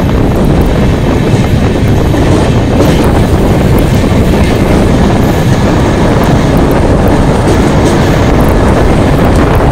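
Train running on the rails: a loud, steady rumble with the faint clicking of wheels over the track.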